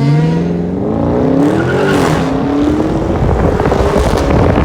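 Dodge Charger Scat Pack's 6.4-litre Hemi V8 accelerating hard in a full-throttle pull. The exhaust pitch climbs, dips briefly at an upshift about two seconds in, then climbs again, while a loud rushing noise builds up.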